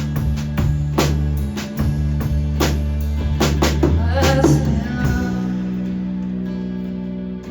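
Live rock band playing an instrumental passage: drum kit hits and cymbals over bass and guitar chords. About five seconds in the drums stop, and a single held chord is left ringing and fading.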